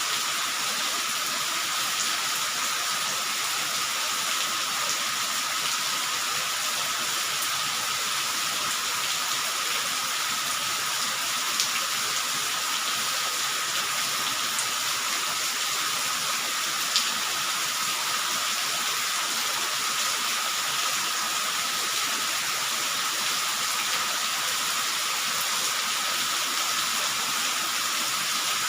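Steady rain falling, an even hiss, with a couple of sharper drop ticks and a faint steady high tone underneath.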